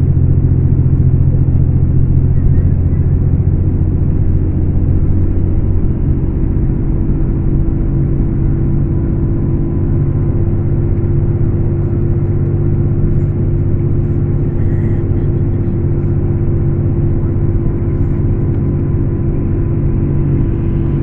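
Scania K410 coach's 13-litre inline-six diesel engine running at a steady speed, a low even drone that eases off slightly a few seconds in.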